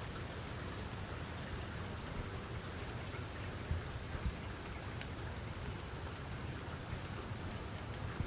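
Steady rain falling, an even hiss of drops with a low rumble beneath it. Two single drops tap louder a little under four seconds in and just after four seconds.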